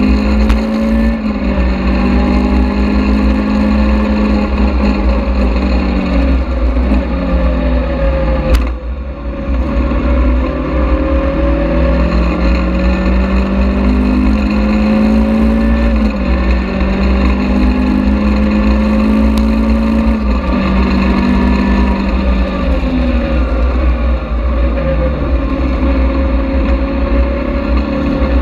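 Caterham Seven sports car engine on track, heard from inside the open cockpit: the revs climb and then drop sharply again and again as it is shifted up through the gears, with falling pitch under braking. A heavy low rumble of wind runs underneath.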